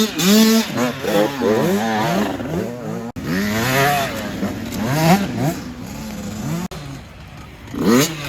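Dirt bike engines revving hard, their pitch climbing and dropping again and again as the riders work through the gears. The sound breaks off abruptly twice.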